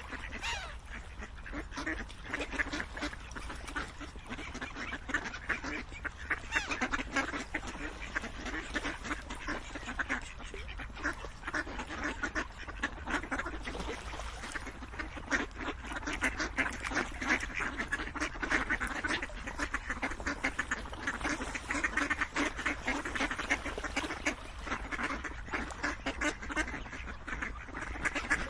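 A flock of ducks quacking continuously, many short calls overlapping with no break.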